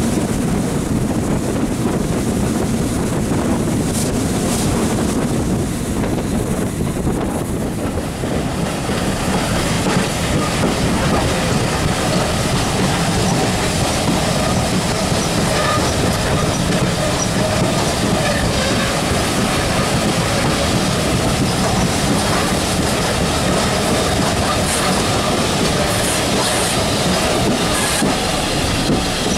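Steady rolling noise of a steam-hauled passenger carriage running along the track, heard from an open carriage window, with wheels clicking over the rail joints.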